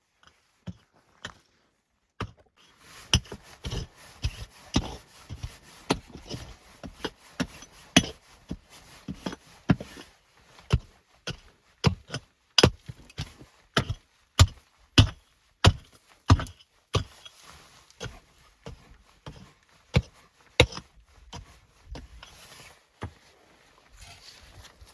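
A long run of sharp knocks or chops, irregular, about one or two a second, starting about two seconds in.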